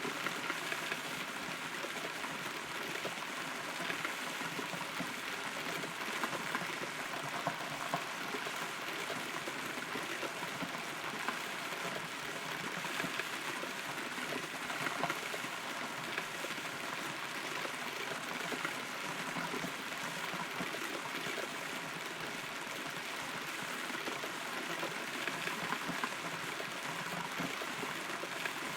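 Rain falling on and around a hollow rotten tree, heard from inside the trunk: a steady patter with scattered louder drops.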